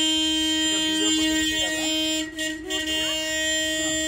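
Museum toy train's horn sounding one long, steady, unbroken blast: the departure signal calling riders to board.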